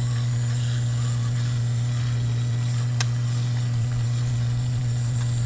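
Dremel rotary tool running steadily with a polishing wheel, buffing wax polish onto steel needle nose pliers: a constant low hum, with one sharp tick about three seconds in.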